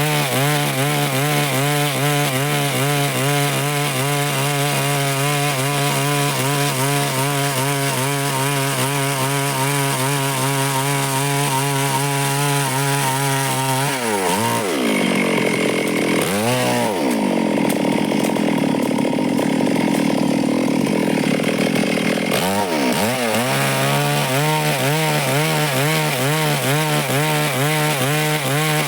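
Stihl chainsaw engine running steadily as it saws through wood. About halfway through, the pitch dips and swings, then runs at a different, noisier note for several seconds before settling back to the steady cutting sound.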